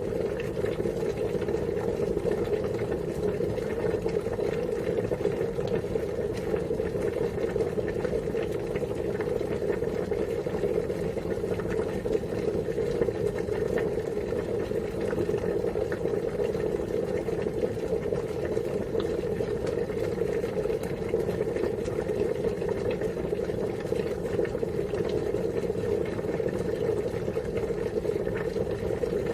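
Water boiling, a steady unbroken bubbling that holds the same level throughout.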